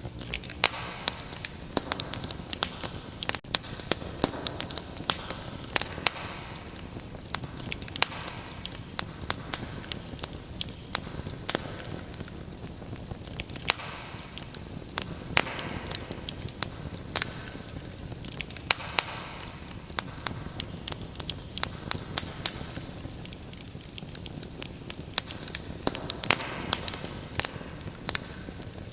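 Wood fire crackling in a fireplace: many sharp, irregular pops and snaps over a soft steady rumble of burning.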